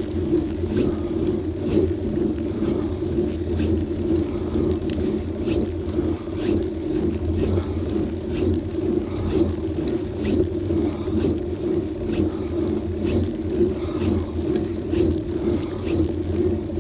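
Wind and road noise of a bicycle ride picked up by an action camera, a steady low rumble with faint ticks a little more than once a second.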